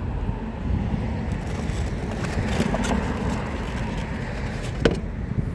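Steady road-traffic noise, mostly low rumble, with one sharp click about five seconds in.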